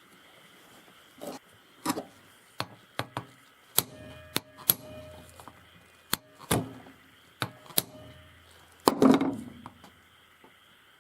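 Irregular sharp clicks and knocks of small metal tools and carburetor parts being handled and set down, some with a brief metallic ring, ending in a louder clattering knock near the end.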